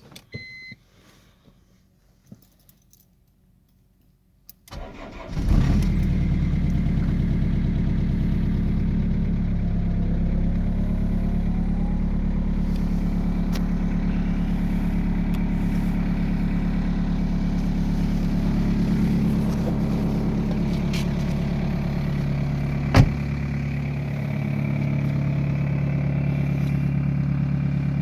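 A short electronic beep, then a BMW 320d's 2.0-litre four-cylinder common-rail diesel cranks and catches about five seconds in on a cold start at −5 °C, and settles into a steady diesel idle. A single sharp click sounds near the end.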